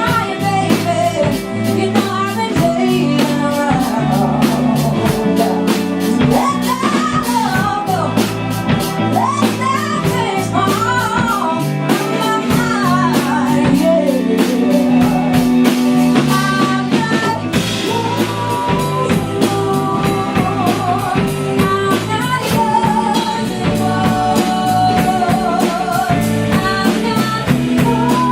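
A live band playing a song with a steady beat: a female lead vocal over drum kit and guitar.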